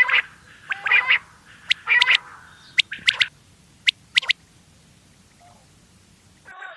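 Quail calling: short, rasping call bursts about once a second, then several sharp, thin high chirps. The calls stop for about two seconds, and a new series starts near the end.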